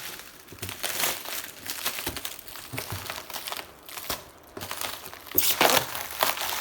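Packaging crinkling and rustling as it is handled and pulled open, in irregular crackles, with the loudest flurry about five and a half seconds in.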